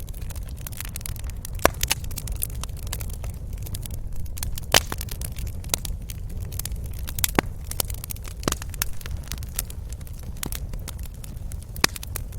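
Wood fire crackling in a fireplace: irregular sharp pops and snaps over a steady low rumble, with louder pops about 1.5 s, 5 s, 7 s and 12 s in.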